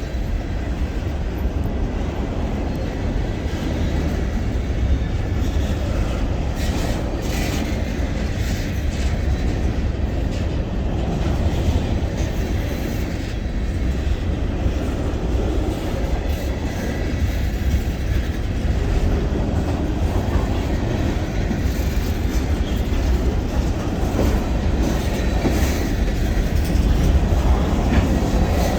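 Freight train rolling by: a steady, heavy rumble of steel wheels on rail, with scattered faint clicks.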